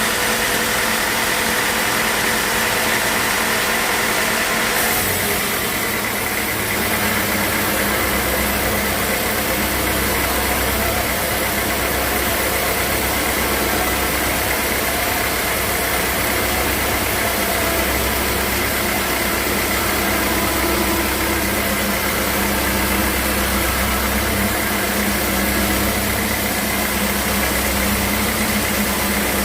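Sawmill machinery running steadily. About five seconds in, the sound shifts: a higher hiss and a deeper rumble come in.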